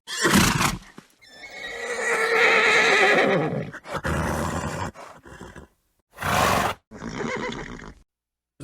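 Horse whinnying: a long, wavering neigh about a second in, with shorter horse calls and snorts before and after it, broken by moments of dead silence.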